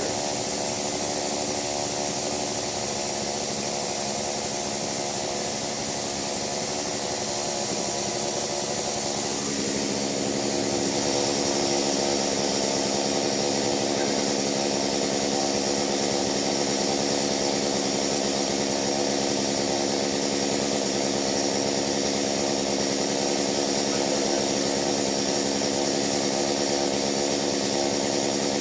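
Chainsaw engine running steadily, getting a little louder about a third of the way in.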